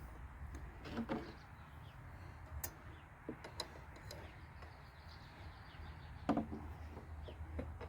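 Scattered clicks and knocks of tools and metal parts being handled during a lawnmower repair, the two strongest about a second in and near the end, over a low steady hum.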